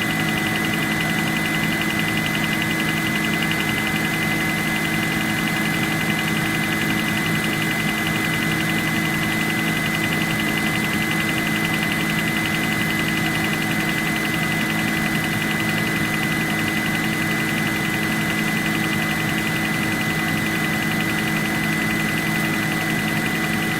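Car engine idling steadily, with a rapid knock running through it.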